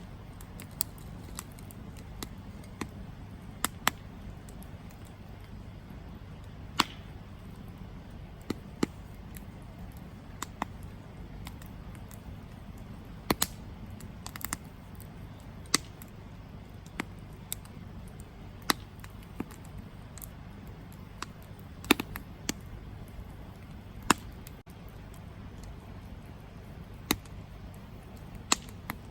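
Wood campfire burning: irregular sharp crackles and pops, roughly one every second or two, over a steady low background. The loudest pop comes about 22 seconds in.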